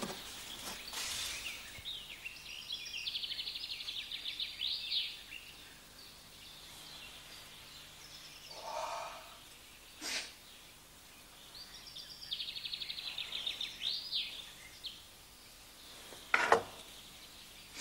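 A songbird singing a short, fast trilled phrase that ends in a flourish, twice, about nine seconds apart. Between the two phrases there is a brief yawn, and near the end a single sharp knock, the loudest sound.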